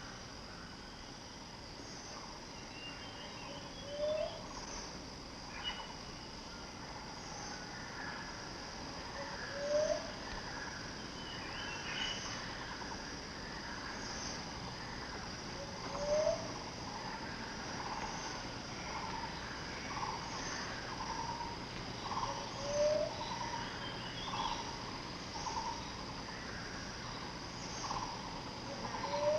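Broadleaf forest ambience: a steady high-pitched insect drone, with a short low rising call repeated about every six seconds and other bird calls and chirps. From about halfway through, a run of mid-pitched notes comes roughly once a second.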